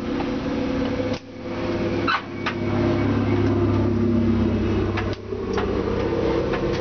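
BMW E30 race car's straight-six engine running steadily at a fast idle, heard from inside the caged cabin, with two short dips, about a second in and again near five seconds.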